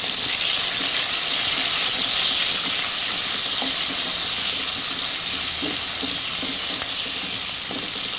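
Chopped onion and green capsicum sizzling in hot oil in a kadai, stirred with a spatula: a steady, loud frying hiss with small scattered ticks.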